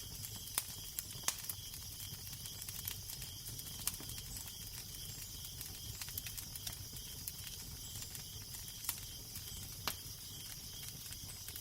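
Crackling fire: irregular sharp pops and snaps over a steady low rumble of wind and a soft hiss.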